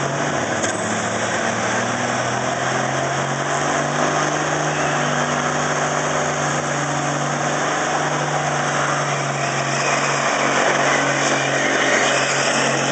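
Diesel big-rig truck engine running steadily at a low, even speed, growing a little louder near the end.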